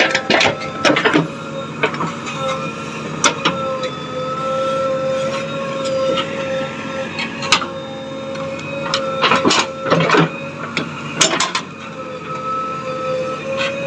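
Machinery running with a steady, slightly wavering whine, with sharp knocks and clatters now and then, most of them about ten seconds in.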